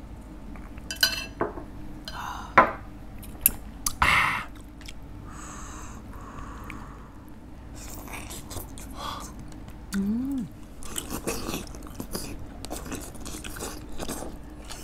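Close-up chewing of boiled chicken, with mouth smacks and several sharp clicks of shot glasses and utensils against dishes in the first few seconds. A short breathy burst comes about four seconds in, and a brief hum of a voice about ten seconds in.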